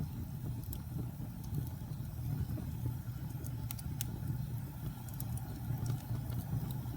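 Wood fire in a fireplace crackling: scattered sharp snaps and pops over a steady low rumble.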